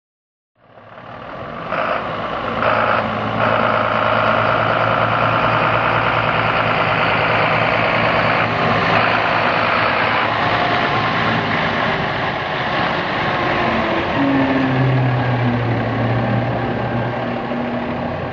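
2009 Freightliner M2-106 recycling truck's Mercedes-Benz diesel engine running steadily; the sound fades in about half a second in.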